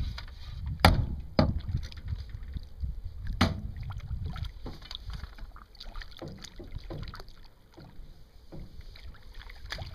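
Sharp knocks and bumps of a landing net and a blue catfish being brought aboard a pontoon boat, loudest about a second in and again near three and a half seconds, over a low steady rumble.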